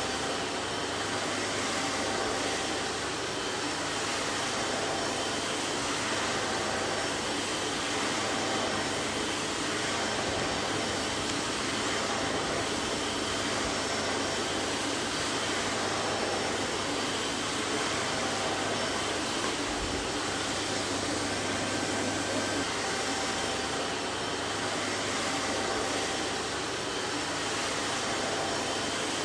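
Vacuum cleaner running steadily: an even rushing noise with a faint motor hum and a few thin steady whining tones, without change.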